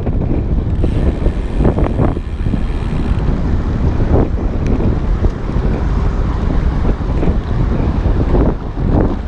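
Wind rushing over the microphone of a riding road cyclist, a loud, steady rumble with irregular gusty swells.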